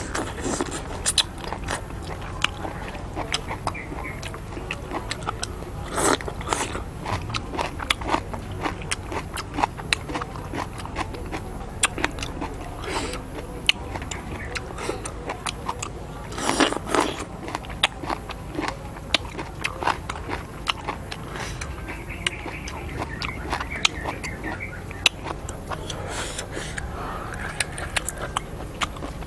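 A person chewing and smacking their lips close to the microphone while eating a seafood salad by hand: many short wet clicks and smacks throughout, with a few louder ones about six seconds in and near the middle.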